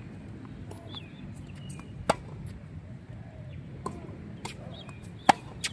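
Tennis ball struck by rackets and bouncing on the court: a sharp pop about two seconds in, fainter knocks after it, and two more sharp pops close together near the end. Birds chirp faintly in the background.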